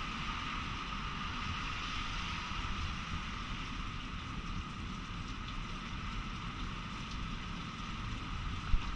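Steady rush of a flood-swollen river, with a low rumble underneath and a single bump near the end.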